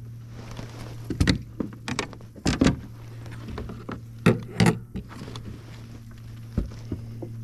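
A few sharp, irregular knocks and rattles of gear being handled in a kayak, over a steady low hum.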